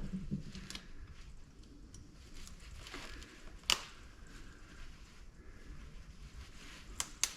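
Faint handling sounds as small scrapped parts are worked over: a few light clicks, the sharpest about three and a half seconds in and two more close together near the end.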